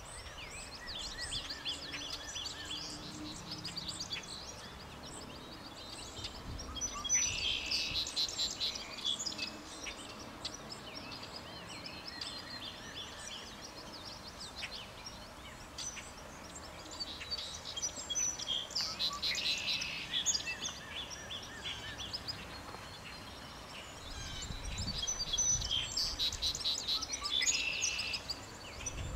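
Songbirds singing: rapid high chirping phrases throughout, louder in three spells several seconds apart, over steady outdoor background noise.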